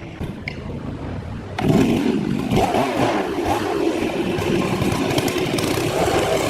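Petrol chainsaw running; it gets much louder about one and a half seconds in and keeps going, its engine note wavering as it works through wood.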